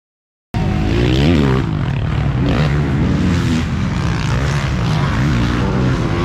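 Motocross race bikes running on the track, several engines overlapping, their pitch rising and falling as the riders rev through gears and over jumps. The sound cuts in after a brief silence at the very start.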